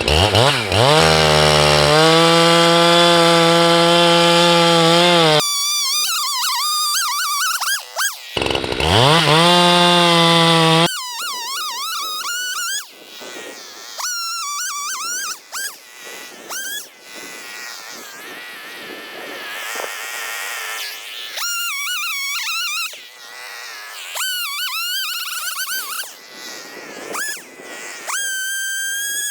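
Husqvarna 390XP two-stroke chainsaw revving up and running at full throttle, twice, with long stretches of higher, wavering saw sound as the 32-inch bar cuts into a large stump.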